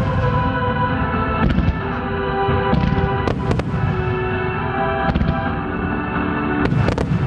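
Aerial fireworks shells bursting in a display, about seven sharp bangs spaced irregularly, some in quick pairs, over a continuous low rumble. Music with long held notes plays throughout.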